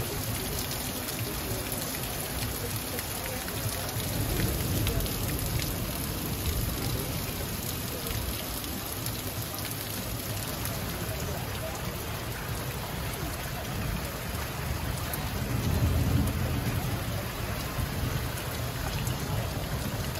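Heavy rain pouring onto thatched roofs, gravel and a pond, with water dripping off the thatch eaves. A low rumble swells about four seconds in and again around sixteen seconds.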